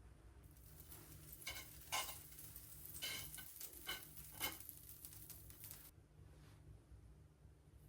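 Cooking sounds: several light clinks and taps of a utensil stirring over a faint sizzling hiss, which cuts off abruptly about six seconds in.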